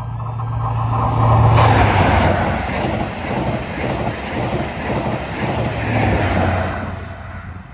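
CrossCountry passenger train passing close by at speed, its wheels rattling over the track. The sound swells to its loudest about a second and a half in, stays loud, then fades away near the end.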